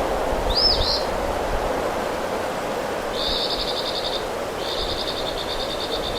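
A small bird calling: one quick rising-and-falling whistled note about half a second in, then two rapid trills of repeated high notes, the second longer, over a steady rushing background.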